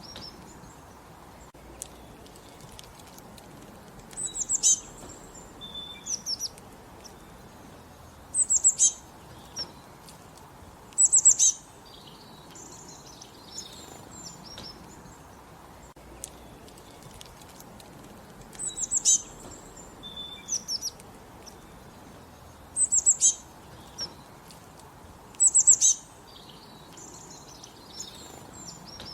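Small songbirds singing: a loud, high-pitched song phrase recurs about six times, with softer chirps and twitters between the phrases.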